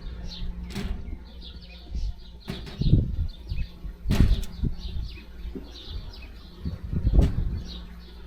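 A few dull thumps and knocks, the loudest about three, four and seven seconds in, with small birds chirping in the background.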